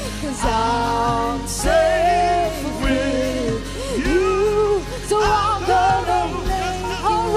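Worship music: a voice singing a melody with vibrato over band accompaniment with a steady bass.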